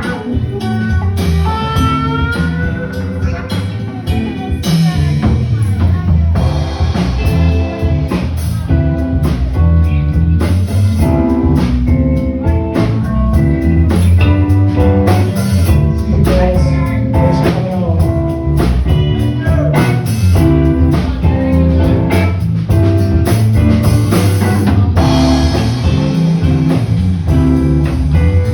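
Live band playing a blues-style instrumental, with electric guitar, bass and drum kit.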